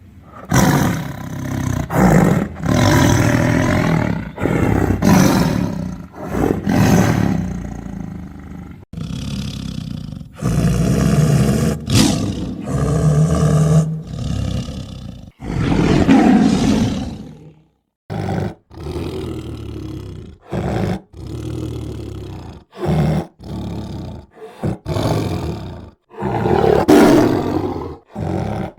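Tiger roaring again and again, a loud run of long deep roars and growls, then shorter roars with abrupt cuts between them after about 18 seconds, as in an edited sound-effect sequence.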